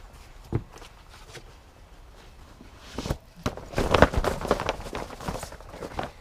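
Footsteps with scattered knocks and rustling, most of them bunched together between about three and five and a half seconds in.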